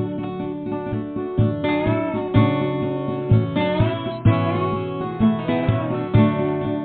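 Music: acoustic guitar playing an instrumental passage, with regular strummed or plucked attacks and sustained notes, and a gliding melody line above.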